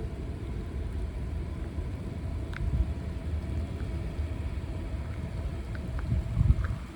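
Steady low vehicle rumble, with some wind noise on the microphone; it swells slightly near the end.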